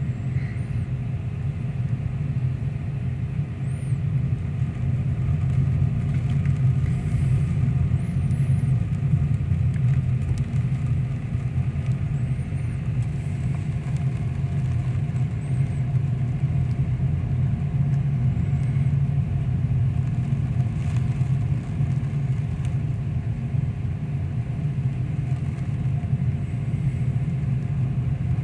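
Steady, loud low rumble of a storm at sea, heard from aboard a ship in 60- to 65-knot winds, with a few faint high whistles now and then.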